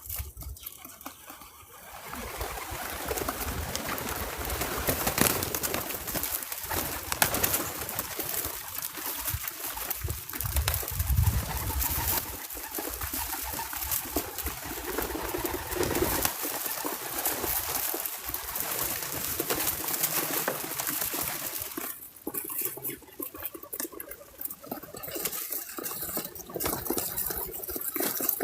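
A dove cooing over a steady rushing background noise that swells about two seconds in and drops away about 22 seconds in.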